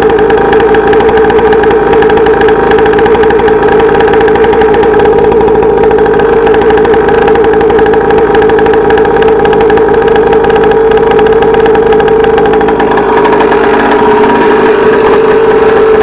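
Two-stroke dirt bike engine running loud at a steady, even speed.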